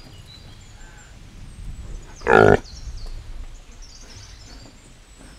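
Reindeer giving one short, low call a little after two seconds in, over faint bird chirps and outdoor ambience.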